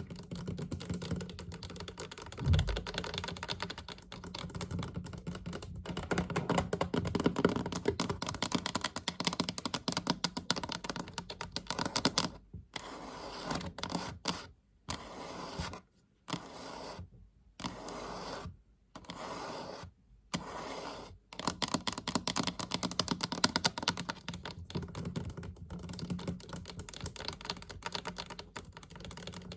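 Fast tapping on a chest: a dense run of quick, light taps, broken by several short pauses about halfway through.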